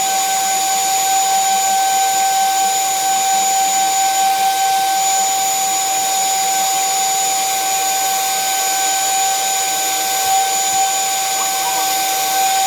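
Electric drill motor running continuously at a steady high whine while cutting through the sheet metal.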